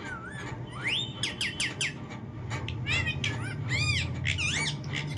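A bird's whistled calls. A short wavering whistle comes first, then a quick run of rising whistles about a second in, and several arched, rise-and-fall chirping calls in the middle.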